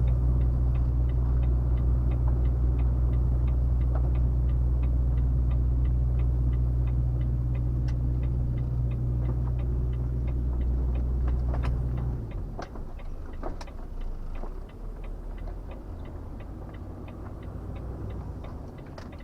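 Volvo FH 460 truck's engine droning in the cab, with the turn-signal indicator ticking at about three ticks a second. About twelve seconds in, the engine drone drops away sharply and a few knocks sound, while the indicator keeps ticking.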